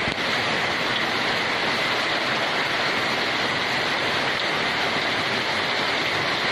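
Steady heavy rainfall, an even unbroken hiss.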